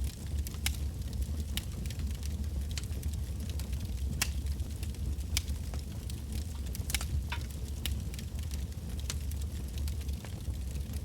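Wood campfire burning, with irregular sharp crackles and pops from the burning logs over a steady low rumble of flame.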